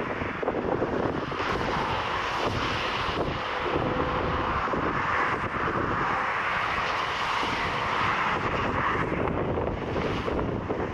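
Airliner's engines coming in to land, a loud rushing noise that swells and then fades as the plane passes. Wind buffets the microphone throughout.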